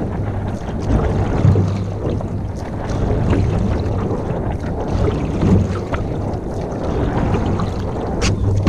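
Canoe moving on a lake, with water sloshing and a steady low rumble of wind buffeting the microphone that swells every few seconds. A short sharp click comes near the end.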